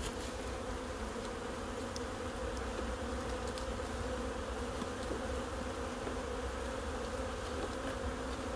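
Swarm of stirred-up honeybees buzzing steadily around an opened hive, a dense, even hum with a few faint clicks.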